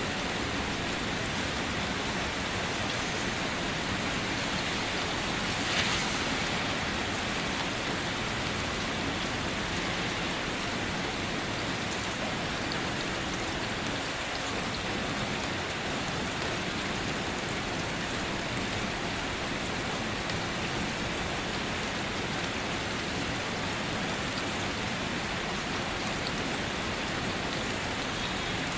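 Steady rain falling on a surface, an even hiss with one louder drop about six seconds in.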